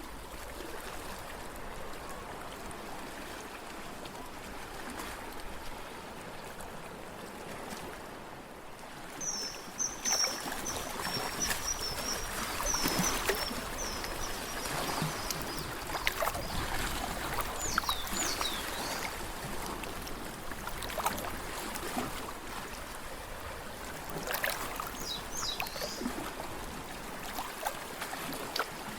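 Lake water lapping and trickling at the shore, with small splashes that come more often after about ten seconds. A small bird chirps a quick run of high notes about nine seconds in, and a few more high notes come later.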